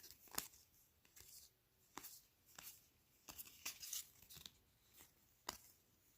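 Faint, short rustles and snaps of trading cards and their pack wrapper being handled, a dozen or so in a row with a busier patch in the middle.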